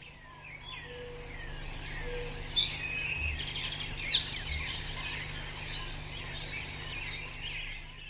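Several birds chirping and calling over one another, with a few sharper, louder calls around the middle.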